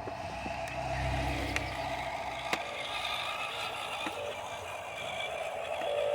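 Huina 1573 radio-controlled toy dump truck's electric motor and gearbox whining steadily, with a few sharp clicks and clatter of small crushed stones.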